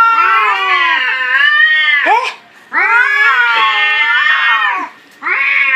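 Cats caterwauling in a fight: long, wavering, drawn-out yowls, three calls with short breaks between them.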